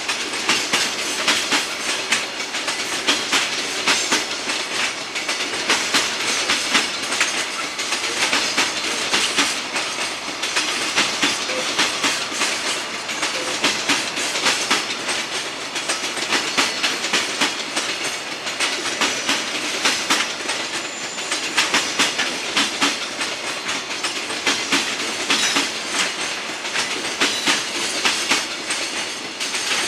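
Container freight train rolling past, its wagon wheels clacking over rail joints in a rapid, continuous run of clicks over a steady rumble.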